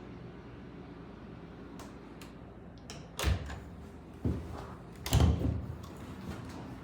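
Three dull knocks about a second apart, the last the loudest, over a steady low hum.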